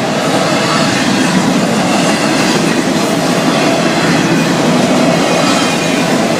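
Freight cars of a Florida East Coast Railway train rolling past close by: a loud, steady clatter of steel wheels on the rails.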